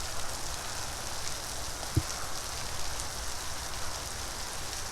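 Steady hiss of water spraying and splattering from a park splash-pad water feature, with a single short knock about two seconds in.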